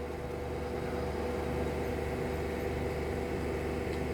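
Steady mechanical hum with a low drone and an even background noise, unchanging throughout.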